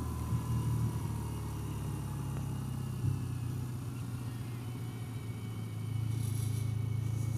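BMW R12's boxer twin engine running under way, a steady low hum with road and wind noise. It gets louder about six seconds in.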